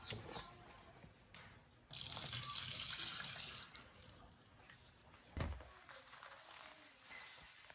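Water running briefly, starting suddenly about two seconds in and trailing off over about two seconds, followed by a single dull thump.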